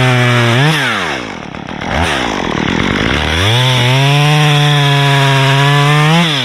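Top-handle chainsaw cutting wood at full throttle in two spells. It revs up and drops to idle about a second in, blips once, then throttles back up for a longer cut and falls back to idle near the end.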